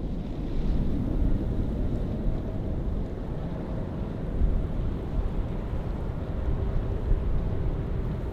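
Wind buffeting the microphone over a steady low rumble, with faint steady engine-like tones.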